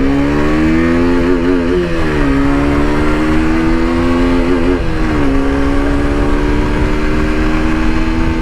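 KTM RC 125's single-cylinder engine accelerating hard through the gears. Its pitch climbs and drops briefly at two gear shifts, about two and five seconds in, then keeps rising slowly in the higher gear.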